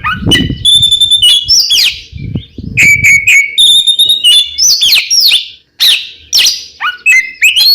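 Oriental magpie-robin (kacer) singing continuously. It gives a quick run of loud whistled notes, short held tones, sweeping glides and sharp chirps, with hardly a pause. A low rumble sits under the song at the start and again about two seconds in.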